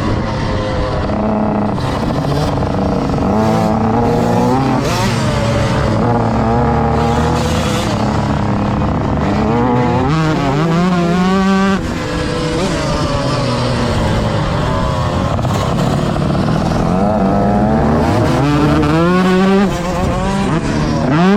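Motocross bike engine heard close up from a camera on the bike. It revs up and eases off again and again, its pitch climbing steeply under throttle and dropping suddenly as the throttle shuts about twelve seconds in.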